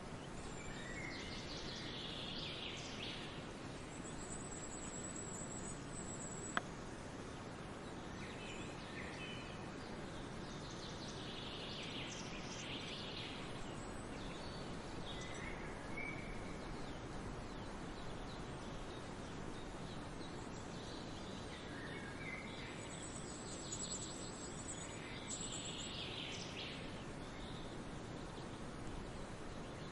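Songbirds singing in scattered bursts over a steady outdoor hiss, with a thin high trill heard twice. There is one sharp click about six and a half seconds in.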